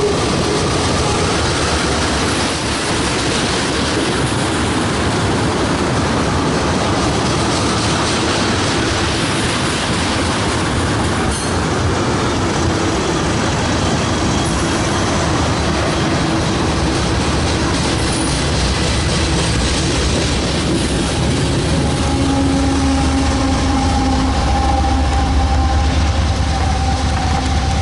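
A train rolling past close by: a loud, steady noise of steel wheels running on the rails. A deeper rumble builds in the last few seconds.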